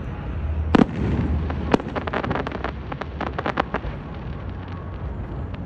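Aerial fireworks shells bursting: a loud bang about a second in and another a second later, then a quick run of sharp crackling pops lasting about two seconds, over a steady low rumble.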